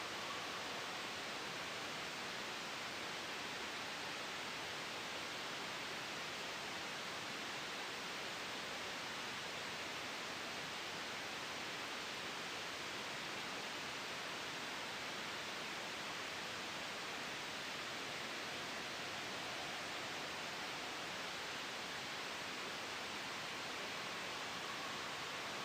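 Steady, soft white noise: an even hiss with no swells, gusts or breaks.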